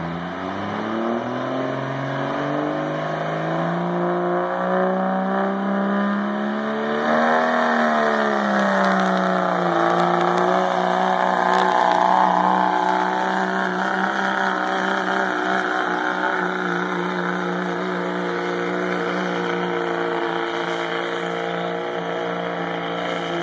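Dodge 2500 pickup's Cummins diesel engine pulling a sled under heavy load. It revs up over the first seven seconds or so, dips briefly, then holds at high rpm.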